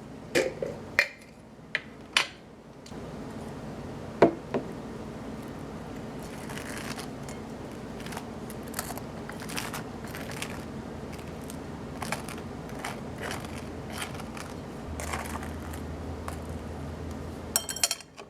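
Handling noises: a few sharp clicks and knocks, then repeated short scraping and rustling over a steady low hum, with more quick clicks near the end.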